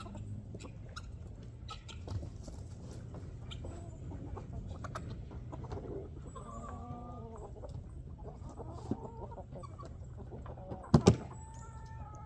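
Chickens clucking, with scattered small clicks and taps and a loud double knock near the end.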